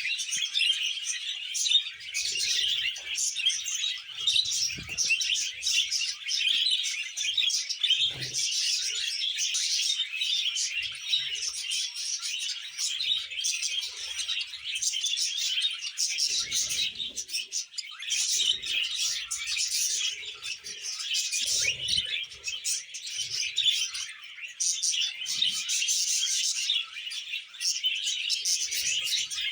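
Budgies chattering and warbling continuously in a dense stream of fast, high chirps.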